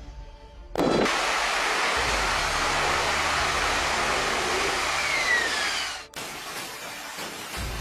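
Fighter jet engine noise: a loud, steady rushing roar that starts suddenly about a second in, with a falling whine near the end, and cuts off abruptly, leaving a quieter rush.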